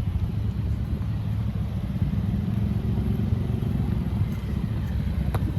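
Steady low rumble of road traffic on a city street, with a few faint clicks.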